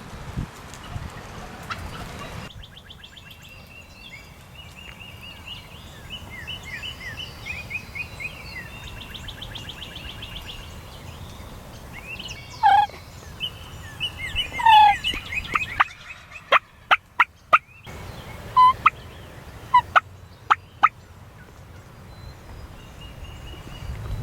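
Wild turkeys gobbling again and again, the rattling gobbles overlapping one another, with a few louder calls in the middle. In the second half comes a quick series of short, sharp, loud notes.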